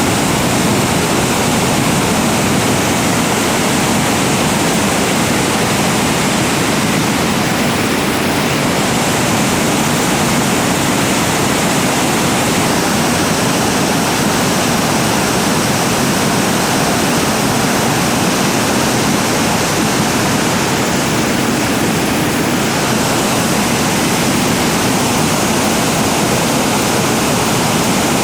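River whitewater rushing over rapids or falls, a loud, steady, even rush of water.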